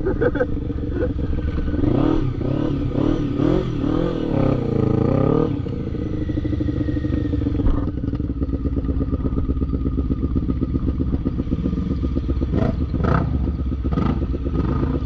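Quad bike (ATV) engine revving hard and unevenly, its pitch rising and falling for the first several seconds, then running more evenly. A few short knocks or clatters come near the end.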